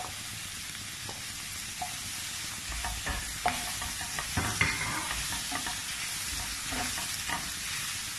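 Onions and chopped tomatoes sizzling in a stainless steel pan, stirred with a wooden spatula that scrapes and knocks against the pan, the scraping heaviest from about two and a half seconds in.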